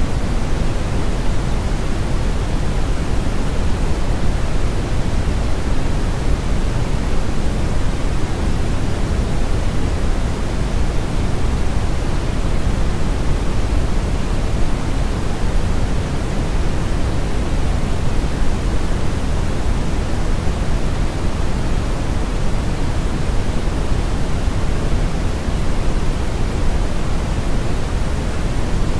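Steady brown noise: an even, unbroken hiss weighted heavily toward the low end, like a deep rumble with little treble.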